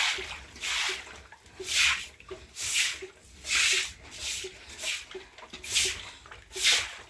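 Rhythmic swishing strokes, about one a second, each a short hiss, with faint light ticks between them.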